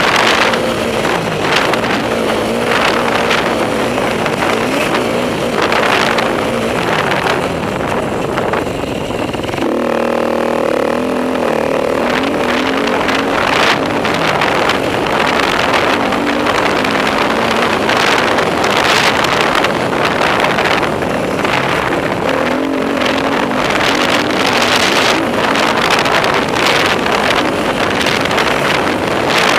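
Enduro motorcycle engine revving and easing off again and again as it is ridden hard around a motocross track, with a steadier, even-pitched stretch about ten seconds in.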